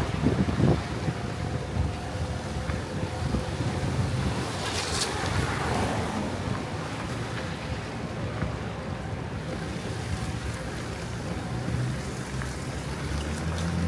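A car driving along a road: a steady low rumble of engine and tyres with a hiss of wind.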